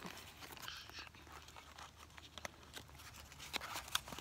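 Faint, scattered small clicks and crunches, with no speech.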